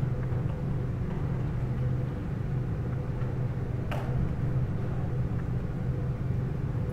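Freight train of boxcars rolling past: a steady low rumble of wheels on rail, with one sharp click about four seconds in.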